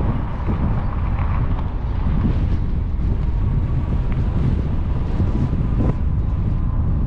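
Wind rushing over the microphone of a moving e-bike: a steady low buffeting rumble with a faint high hum underneath.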